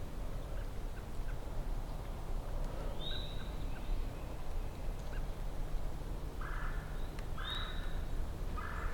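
Wild turkey gobbler gobbling, three quick rattling bursts about six and a half seconds in. A small bird gives a short high call twice.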